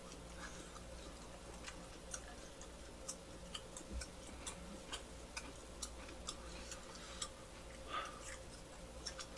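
Faint, irregular wet clicks of mouths chewing soft, chewy butter-roasted gijeongtteok (Korean rice-wine steamed cake), roughly one or two a second, over a low steady hum.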